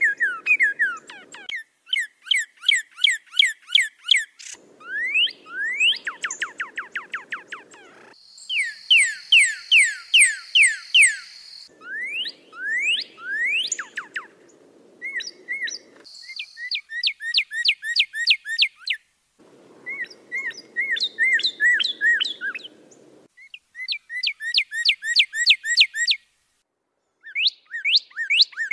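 Songbird song in quick, repeated series of slurred whistles, several per second, pieced together from separate recordings that cut abruptly from one to the next every few seconds; some pieces carry a low background hum and others are clean.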